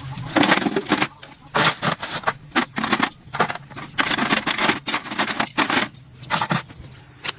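Hand tools and metal pump parts clinking and knocking in an irregular run of sharp clicks, over a faint steady low hum.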